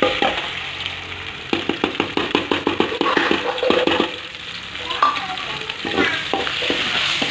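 Ground chili paste sizzling as it drops into hot oil in a wok, while a metal spatula scrapes and taps quickly against a steel bowl and the pan to knock the paste off. The clatter of taps is thickest in the first half.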